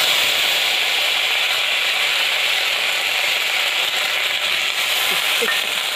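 Freshly ground wet spice paste sizzling in hot oil in an iron kadai: a loud, steady, crackling hiss.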